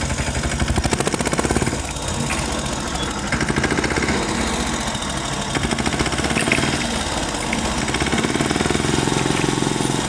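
Tractor engine running with a fast, even chugging beat that stays steady throughout.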